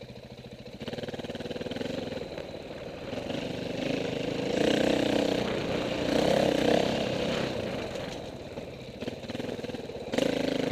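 Dirt bike engine running, getting louder through the middle and then easing off, with a short rise again near the end.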